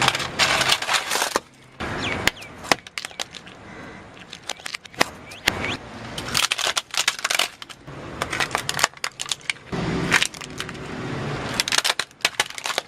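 Brittle material crunching and cracking under pressure: clusters of sharp crackles and snaps in several bursts, with short pauses between them.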